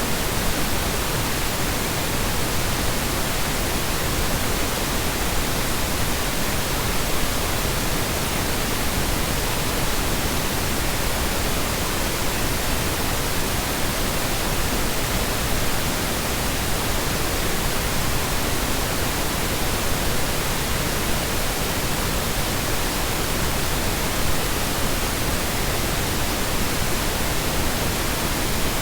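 Continuous synthesized noise: an unbroken, even hiss that holds the same level throughout, with no tones, loops or changes.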